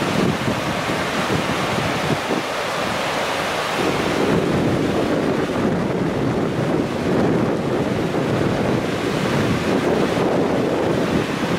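Steady rushing of the typhoon-swollen Kizu River in flood, with wind buffeting the microphone.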